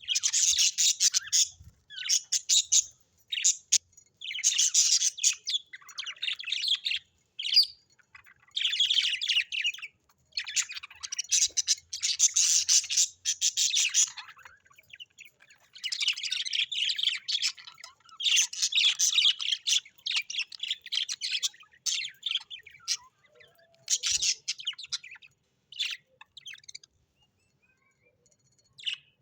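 Birds chirping in rapid chattering bouts of high notes, each bout about one to two seconds long with short gaps between, a few harsher squawk-like notes mixed in. The calling thins out to a few faint notes near the end.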